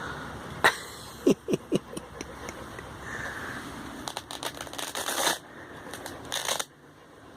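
Boots being handled: a few sharp knocks and clicks in the first two seconds, then rustling and scuffing, with two louder scuffs in the second half.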